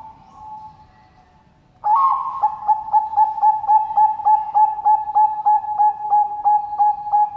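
Zebra dove (Bangkok-type perkutut) cooing: a soft coo at first, then from about two seconds in a loud, rapid run of short repeated coos, about four a second.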